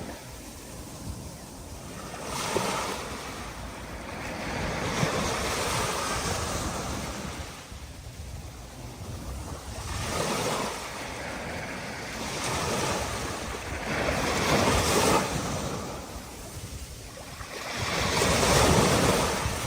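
Rough sea before a storm: waves surging and breaking in repeated swells every few seconds, each rising and falling away, with wind blowing across the microphone.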